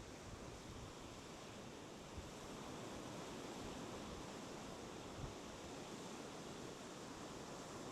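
Sea waves washing over small boulders, an even constant hiss that swells slightly partway through, with a soft low bump about five seconds in.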